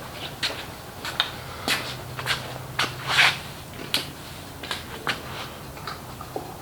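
A string of light, irregular clicks and knocks, roughly one every half second, the loudest a little past the middle, over a faint steady hum.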